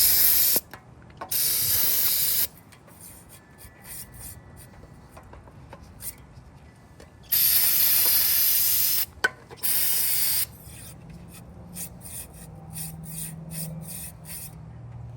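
Four bursts of pressurized spray hissing into the oil passages of a 383 engine block, the longer ones lasting about a second or two, with quieter scraping and scattered clicks between them as the passages are cleaned out.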